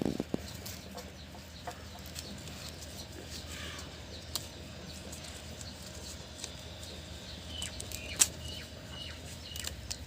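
Scattered light clicks and rustles with a low steady hum, and a few short high bird chirps over the last couple of seconds; the loudest is a single sharp click about eight seconds in.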